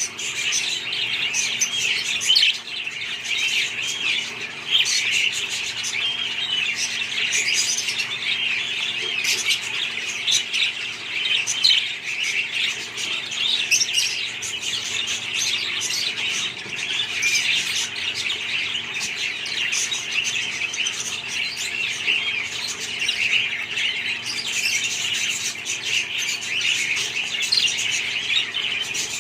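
A flock of budgerigars chattering, with many overlapping chirps and warbles running on without a break.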